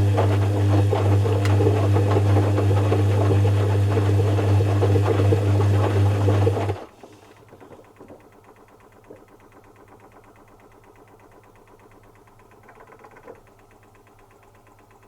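1990s Zanussi FC1000 compact washing machine running with a steady hum and rattle, which cuts off abruptly about halfway through, leaving only a faint low sound from the machine.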